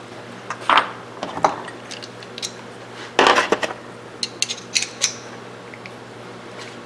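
Metal tools and small rifle parts clinking and clicking as they are handled during reassembly of a lever-action rifle: two sharp clinks in the first second and a half, a louder clatter around three seconds in, then a run of lighter ticks.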